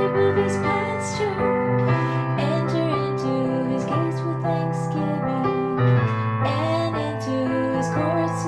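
A woman singing a simple scripture song over sustained piano chords, the piano changing chord every second or two.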